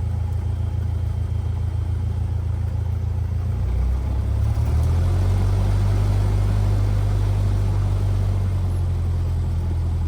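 Cessna 172R's four-cylinder Lycoming engine running at low taxi power, a steady low drone that grows a little louder, with a slight shift in pitch, about four to five seconds in as power is added.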